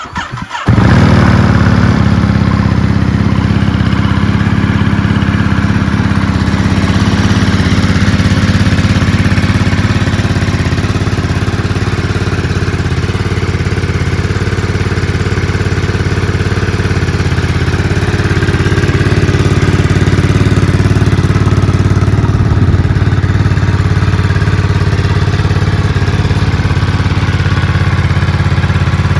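Ducati Monster 937's 937cc Testastretta V-twin, breathing through a Mivv titanium slip-on exhaust, cranks briefly and catches within the first second. It then idles steadily and loudly.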